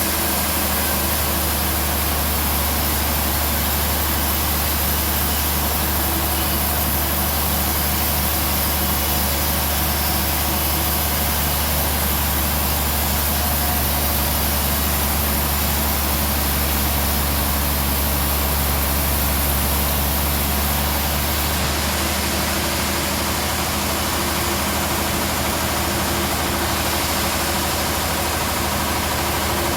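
Band sawmill running steadily: a constant low hum under a hiss. The high hiss eases slightly about 22 seconds in.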